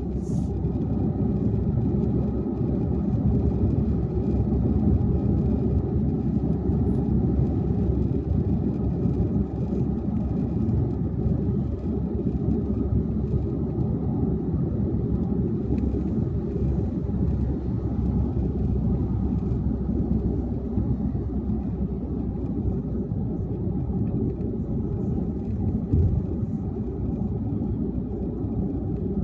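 Car driving at highway speed: a steady low rumble of road, tyre and engine noise.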